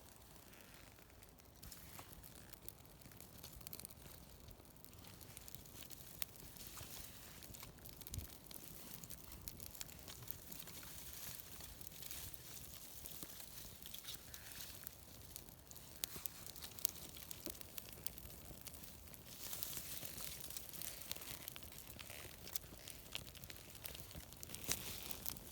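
Quiet rustling and crinkling with many scattered small crackles and clicks, growing louder for a couple of seconds about three-quarters of the way through and again near the end.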